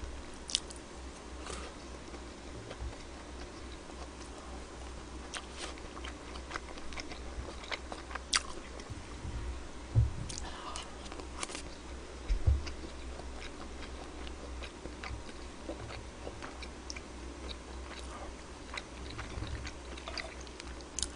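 Close-up eating sounds: chewing and biting on mouthfuls of pork-belly bean-sprout rice, with scattered small clicks and taps of a spoon. A couple of low thumps stand out, about halfway through.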